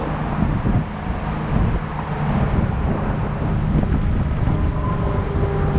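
Wind buffeting the microphone of a moving electric bike, a heavy fluctuating rumble, with road or traffic noise under it. A steady whining tone comes in about four seconds in.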